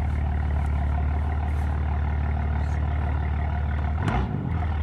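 Catless BMW M4's engine idling steadily, heard from the cabin, with a brief wobble in pitch about four seconds in.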